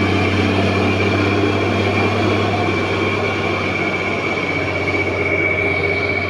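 Old truck's diesel engine labouring on a steep uphill climb, with a steady high whine running over the low engine note; the truck is struggling to make the ascent.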